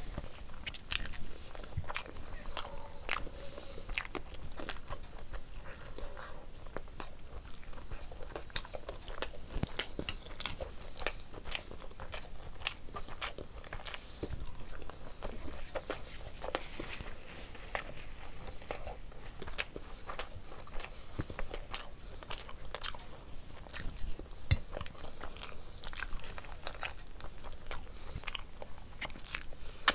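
Close-miked chewing and wet mouth sounds of someone eating rice with egg curry by hand: a steady run of smacks and clicks.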